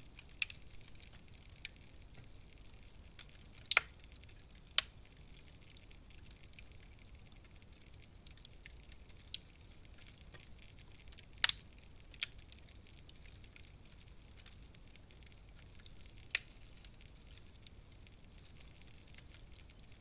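Wood fire in a fireplace crackling: scattered sharp pops, a few louder ones a second or more apart, over a faint steady hiss.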